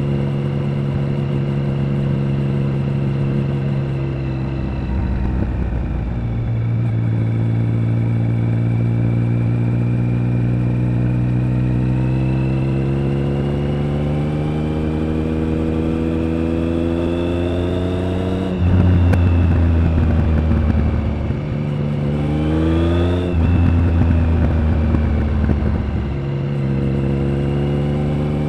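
Triumph Speed Triple 1050's three-cylinder engine and exhaust on the move, its note climbing slowly as the bike gathers speed. About two thirds in the throttle opens and it gets louder, the revs rise quickly and drop at a gear change, then it settles back to a steady cruise.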